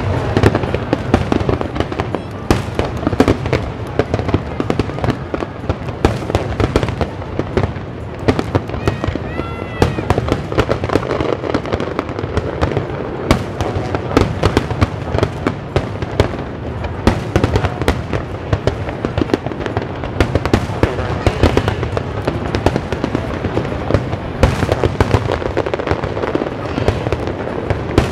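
Aerial firework shells bursting in a dense, unbroken barrage: rapid overlapping bangs and crackling.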